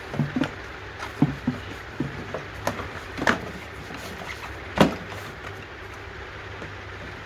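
Scattered knocks and clicks of parts and tools being handled, about eight in all, the loudest a sharp knock near five seconds in, over a steady low hum.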